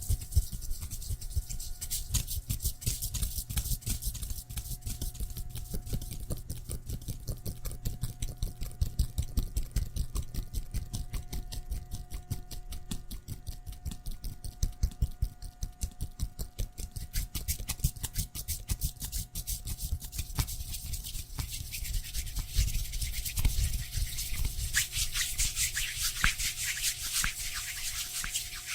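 Rapid, close-miked scratching or brushing strokes, many a second, with a faint steady hum under them; the strokes grow brighter and louder over the last few seconds.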